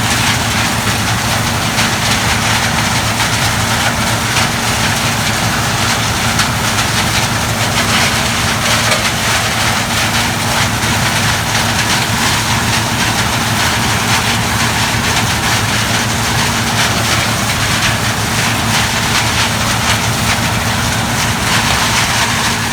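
Gleaner combine running steadily while harvesting corn: a constant engine drone under a dense rush of threshing and machine noise.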